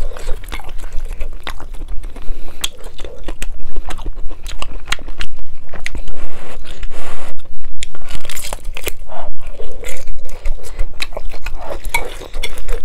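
Close-miked biting and chewing of an air-fried chicken drumstick roll with crispy skin: a dense run of crisp crunches and wet chewing clicks.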